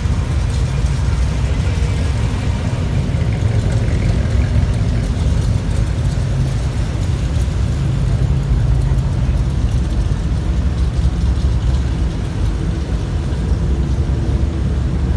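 Classic car engines running slowly with a steady low exhaust rumble, the sound of cars rolling through at low speed.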